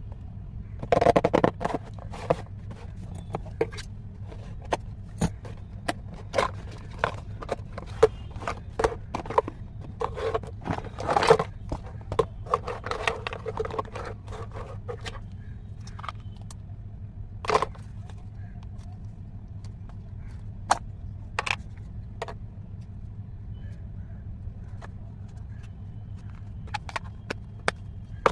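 Clay packaging being handled and opened by hand: scattered sharp clicks, crinkles and scrapes, busiest in the first half, over a steady low hum.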